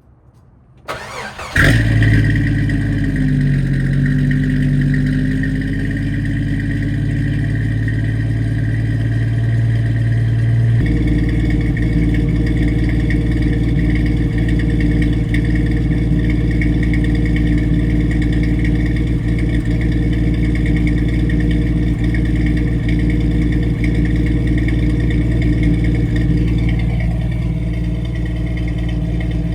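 1989 Jeep Wrangler YJ's 4.2-litre inline-six starting after a brief crank about a second in, then idling through a new straight exhaust with a Flowmaster 40 Series muffler and no cat or resonator. The idle note moves at first and shifts to a steadier tone about eleven seconds in. The owner thinks he hears a miss, which he hopes new plugs, wires and an HEI distributor will cure.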